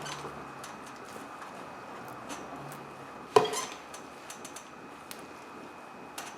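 Hard clatter of fuel injectors and the fuel rail being handled on a workbench: one sharp clack about halfway through and a few light ticks as injectors are pulled from the rail and set down.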